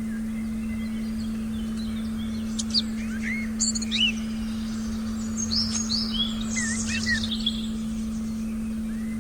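Forest birds chirping, with a cluster of quick chirps and short down-sweeping calls from about two and a half to seven and a half seconds in. A steady, low, pure meditation tone and a faint low rumble hold underneath.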